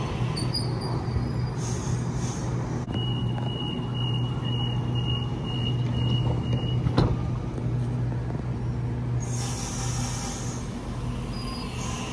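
Train at a station platform: a steady low machine hum with spells of hiss. A thin high tone sounds for about four seconds from about three seconds in, and there is one sharp click about seven seconds in.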